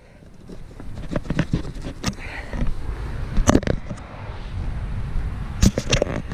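Wind rumbling on the microphone, with scattered sharp clicks and knocks, the loudest about halfway through and near the end.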